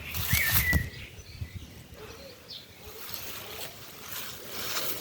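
A songbird calls with a short warbling whistle in the first second, over a loud rustling noise, and gives a brief high chirp about halfway through.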